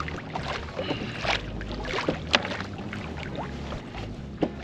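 Fish being handled on a kayak: a few sharp clicks and knocks, the loudest a little past halfway, over steady low wind and water noise.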